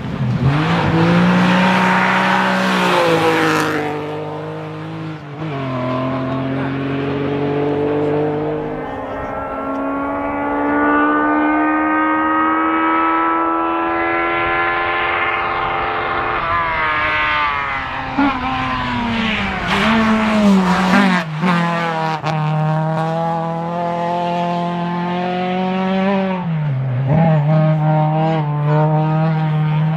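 Rally car engine run hard through the gears on a special stage, its pitch climbing steadily and dropping back sharply at each gear change. A loud rushing noise fills the first few seconds as a car passes close.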